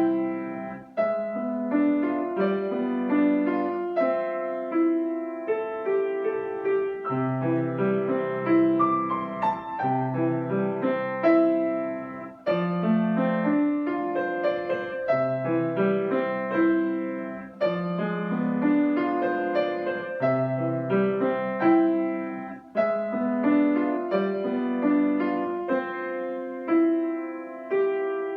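Solo piano playing a gentle piece in flowing phrases of struck, decaying notes, with a short breath between phrases every few seconds.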